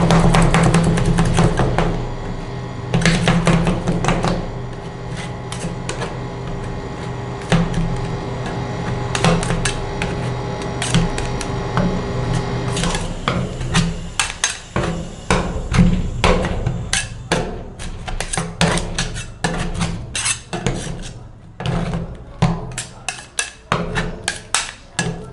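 Metal spatulas striking and scraping a flat metal plate in quick, irregular knocks, several a second, over a steady background hum.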